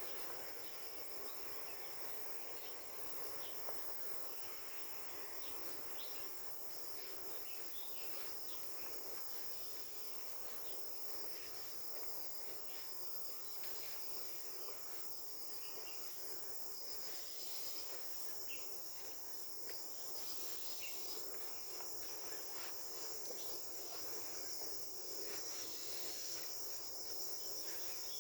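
A chorus of insects trilling steadily at a high pitch, growing a little louder in the second half, with scattered short ticks beneath it.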